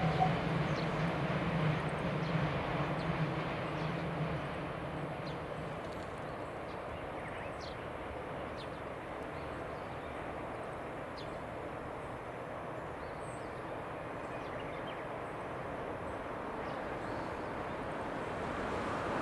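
Container freight train hauled by an EF210 electric locomotive, receding: its steady hum fades over the first four seconds into a faint, even rumble. A few faint high chirps come through in the middle.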